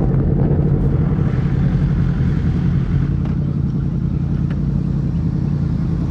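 A motor vehicle engine running steadily with road noise: an even low rumble with no clear rise or fall in speed.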